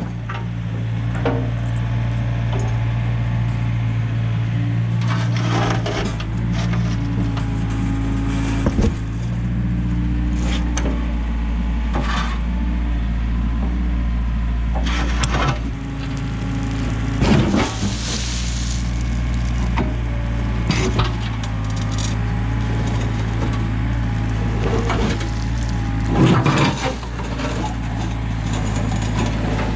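Komatsu excavator's diesel engine running steadily under load while the bucket breaks and lifts slabs of old concrete driveway, with sharp knocks and cracks of concrete every few seconds.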